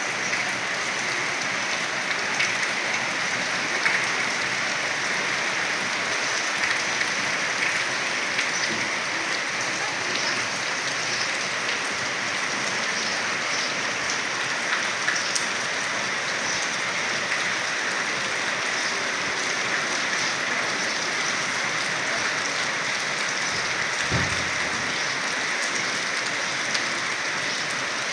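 Steady rain falling, a dense hiss of drops with many small patters on surfaces.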